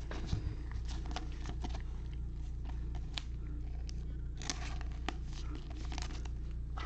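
Baseball trading cards and pack wrappers being handled and flipped through: a run of soft clicks, slides and rustles, with a sharper tap near the end, over a steady low hum.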